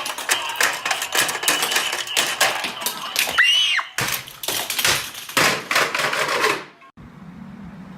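Rapid, irregular clicking and clattering, with a brief rising-and-falling squeak about three and a half seconds in; the clatter cuts off abruptly about seven seconds in, leaving a low steady hum.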